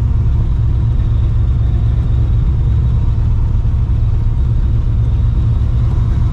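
Straight-piped, supercharged 5.4-litre V8 of a 1999 Mustang GT, a steady low exhaust rumble at low revs with no change in pitch.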